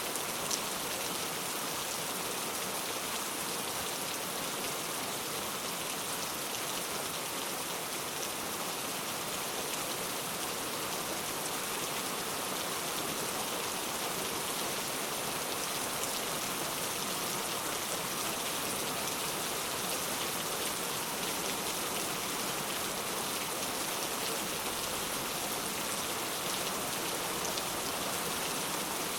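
Steady rain falling, an even hiss with no let-up, and one sharp tick about half a second in.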